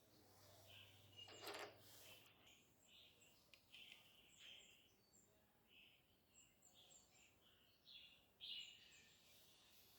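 Near silence, with faint bird chirps scattered throughout and a brief scrape about one and a half seconds in.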